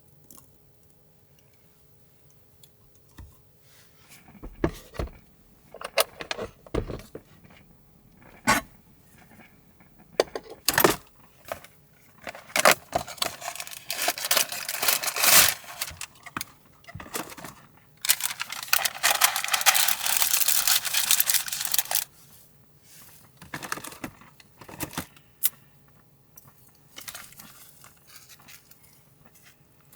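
Small objects being handled at close range: a scatter of clicks and knocks, with two longer noisy stretches, the second lasting about four seconds, that are the loudest part.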